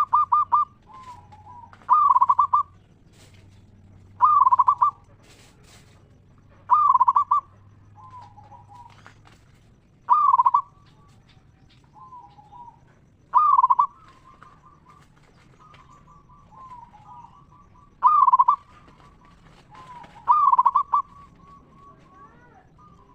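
Zebra dove (perkutut) singing its cooing song. Loud phrases come every two to three seconds, each starting with a fast rattling trill of clear, high coos, with softer, lower coos in between.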